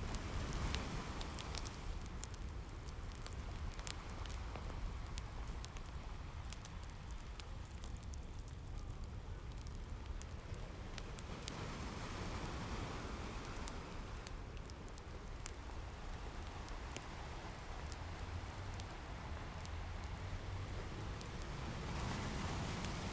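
Ocean waves washing in and drawing back over a low steady rumble, swelling near the start, about halfway and near the end, with the scattered crackles and pops of a fireplace throughout.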